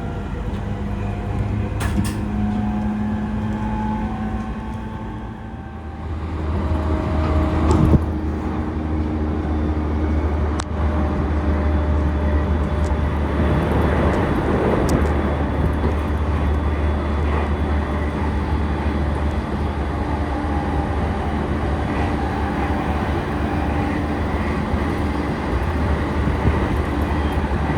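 On-board running noise of a JR East commuter electric train between stations. For the first few seconds the traction motors give a whine that climbs in steps. From about six seconds in, a steady rumble of wheels on track takes over, with a sharp knock near eight seconds.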